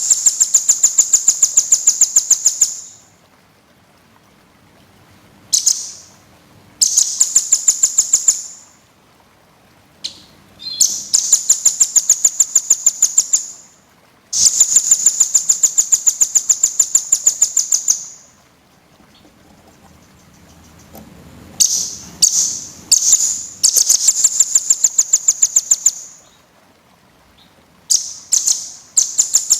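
A small songbird sings dense, high-pitched trills of rapid repeated notes. The trills come in bursts of two to four seconds, with short pauses and a few brief calls in between.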